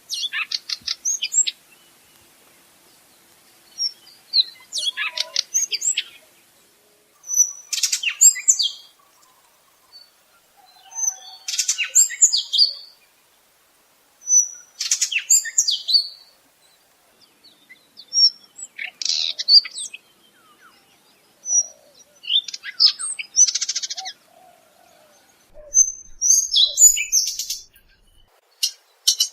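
A stonechat-type chat (genus Saxicola) singing: short, scratchy, twittering song phrases with a few high whistled notes, repeated every three seconds or so with pauses between.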